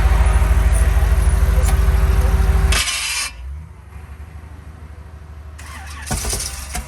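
A show car's engine running loudly with a steady, lumpy low pulse, then shut off abruptly about three seconds in. A few short hissy noises follow near the end.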